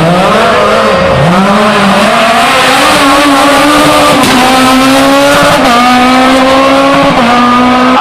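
Rally car engine running hard at high revs, its pitch dipping twice in the first second or so and then held high, stepping down slightly a few times.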